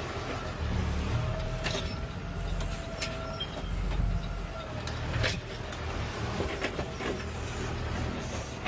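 Garbage truck's diesel engine running with an uneven low rumble, with scattered short knocks and clanks over it.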